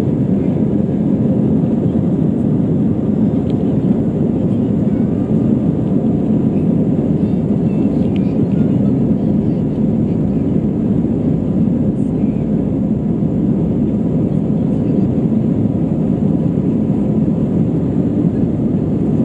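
Jet airliner heard from inside the passenger cabin during departure: a steady, even rumble of engine and airflow noise that holds level throughout.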